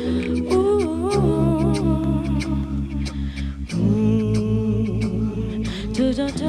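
Live acoustic song passage without lyrics: wordless humming vocals wavering over sustained low chords that change twice, with a steady light percussive tapping.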